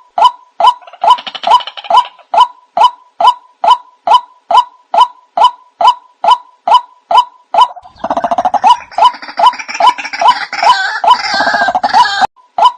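White-breasted waterhen calls played as a bird lure: a steady series of short calls about twice a second. From about eight seconds in until just before the end, a louder, busier chorus of calls joins in over it.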